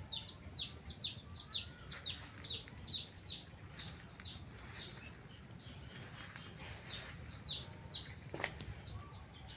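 A small bird chirping: a fast run of short, high, falling chirps, about three or four a second, pausing briefly midway and then resuming, over a faint steady high whine.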